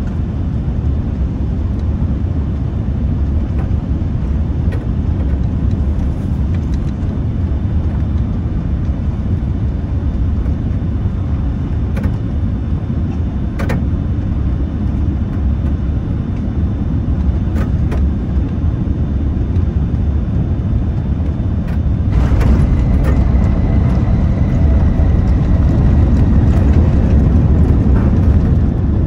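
Steady low rumble of a Boeing 787-10 airliner heard from inside the passenger cabin. It grows louder about two-thirds of the way through, and a few faint clicks sound in the cabin.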